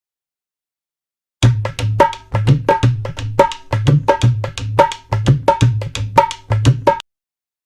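A short drum rhythm used as a sound-effect sting: sharp hand-drum strokes at about three a second, deep low thuds mixed with a ringing higher note. It starts after about a second and a half of silence and cuts off abruptly near the end.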